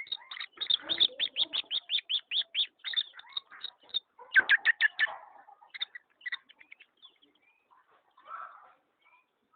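A pet bird making a fast, even run of short sharp sounds, about six a second, then a louder cluster about four seconds in and a few scattered ones after.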